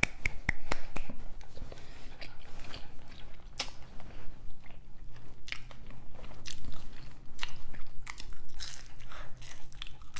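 Close-miked chewing and crunching of McDonald's fast food, including french fries, in irregular wet crackly bites. A few sharp clicks come in the first second.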